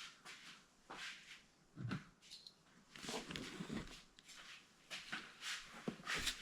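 Scattered light clicks, taps and rustles of die-cast toy cars being picked up and set back on a toy race track.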